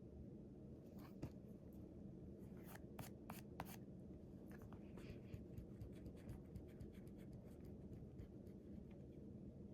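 Writing on paper: faint, quick scratching strokes of a pen or pencil, with a few sharper strokes around three seconds in, over a low steady hum.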